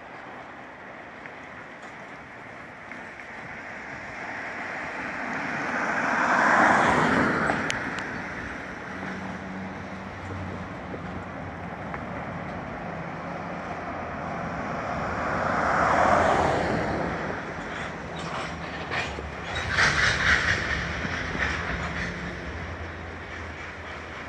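Freight train of covered hopper cars rolling slowly past. The steady rolling noise swells and fades twice, and a run of sharp clicks comes near the end.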